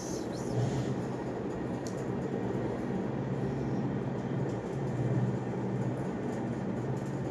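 A steady low mechanical hum and rumble, with a few faint light ticks.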